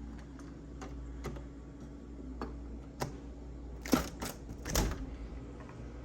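Scattered light clicks and knocks over a low steady hum, with a louder run of three knocks about four seconds in.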